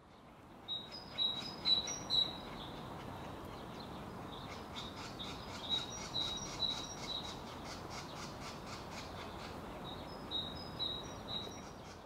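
A bird calling in runs of short, sharp, repeated notes: one run near the start, a longer one in the middle and another near the end. Under the calls is a steady hiss of woodland ambience.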